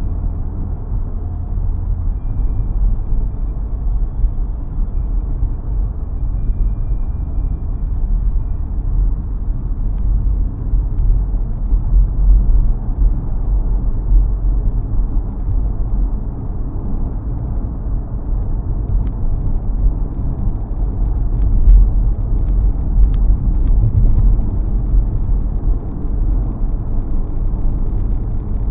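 2017 Nissan Rogue SUV driving at road speed: a steady low rumble of tyre and road noise with the engine underneath, and a few faint ticks about two-thirds of the way through.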